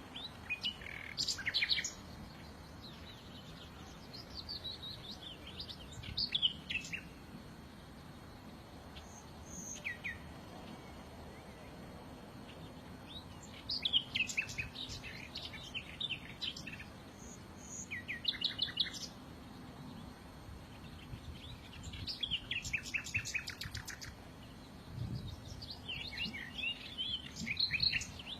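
Small songbirds singing: short phrases of high chirps and quick trills, several of them rapid rattling trills, each lasting a second or two with pauses of a few seconds between.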